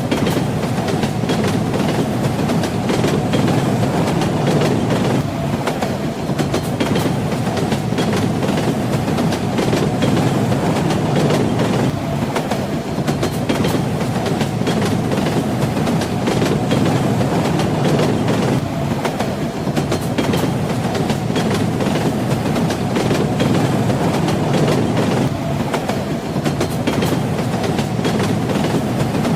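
Train running at steady speed: a continuous rumble with the wheels clacking over the rail joints.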